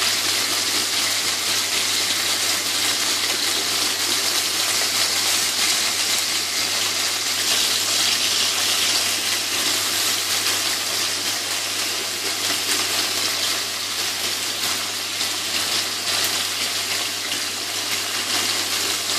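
Chicken wings in soy sauce sizzling steadily as they fry in oil in a nonstick frying pan, with the occasional light scrape of tongs turning them.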